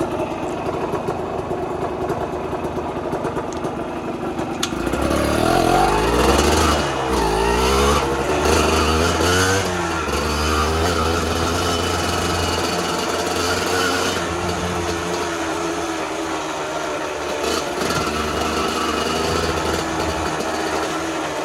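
Dirt bike engines running, one revved up and down several times from about five seconds in before settling to a steadier run.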